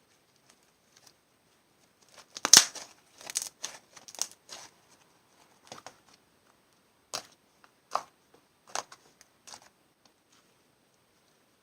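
Clear slime full of trapped air bubbles being squeezed and stretched by hand, giving crackling pops and clicks: a dense cluster about two to five seconds in, then single pops roughly once a second.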